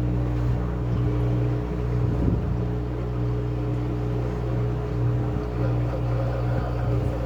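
Washing machine running with a steady motor hum, with a brief rumble about two seconds in.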